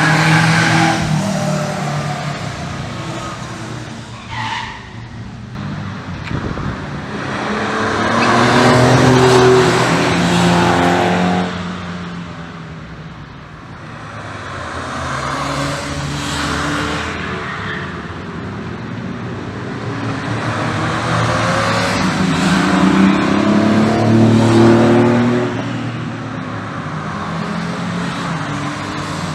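Sports and classic cars racing past on a circuit, one after another, each engine swelling as it approaches and fading away. There are about four loud passes.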